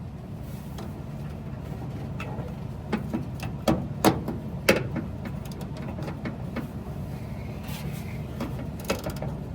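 Scattered metallic clinks and taps of hand tools and loose parts against a truck's exhaust manifold fittings, a few sharp knocks about three to five seconds in and again near the end, over a steady low hum.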